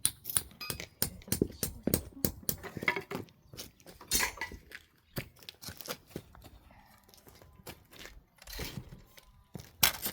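Irregular clinks and knocks, quick and dense for the first few seconds, then sparser, with one loudest knock near the end.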